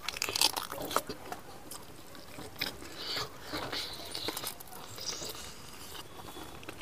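A man chewing a mouthful of rice and fried meat close to a clip-on microphone, with scattered small clicks and short rustles.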